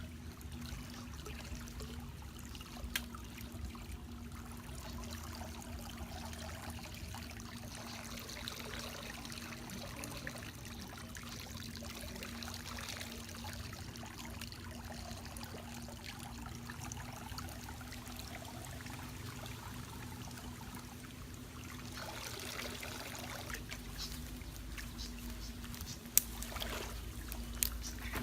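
Water trickling and splashing, with a steady hum underneath and a few sharp clicks, the loudest near the end.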